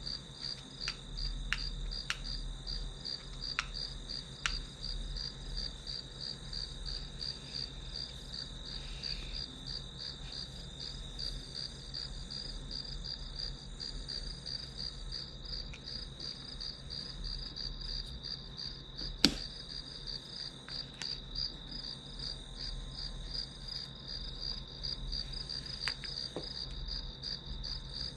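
Crickets chirping in a steady, evenly pulsing trill, over a faint low hum. A few light clicks come through, with one sharper click about two-thirds of the way in.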